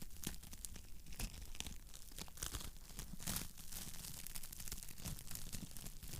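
Wood fire crackling in a fireplace: many irregular pops and snaps over a low steady rumble.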